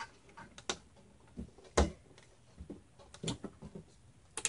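Plastic push-pins of an Intel stock CPU cooler being pressed into the motherboard in opposite corners, a series of sharp clicks and knocks, the loudest about two seconds in.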